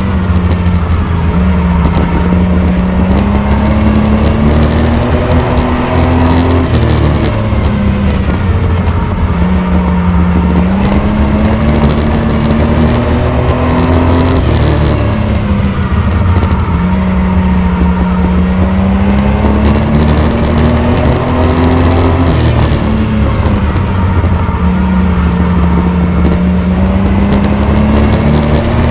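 Racing pickup truck's engine running hard, its pitch climbing and then dropping back in a repeating cycle about every eight seconds, lap after lap on the oval.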